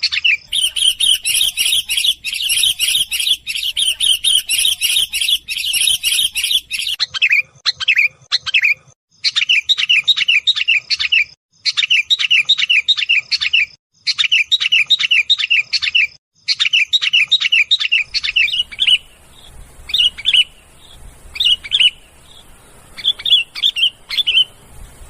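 Sooty-headed bulbul (kutilang) calling in rapid chattering runs of repeated notes, about two seconds each with short pauses between. Near the end the calls thin out to scattered single notes. It is an agitated, noisy call used as a lure to attract wild bulbuls.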